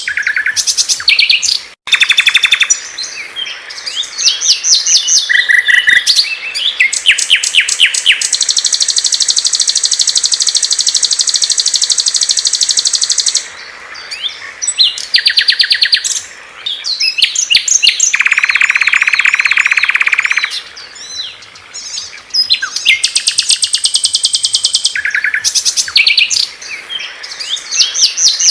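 Songs of small songbirds played back loud and clear in a spliced sequence: fast repeated chirps and trills, a long high trill held for about five seconds, and a lower, even trill later on, with an abrupt cut between phrases about two seconds in.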